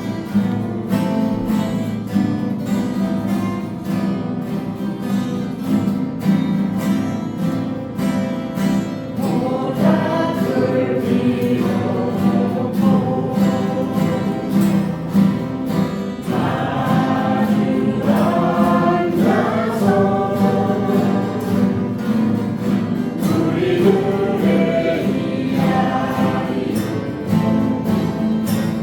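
Acoustic guitars strummed in a steady rhythm while a group of voices sings along, the singing growing clearer about nine seconds in.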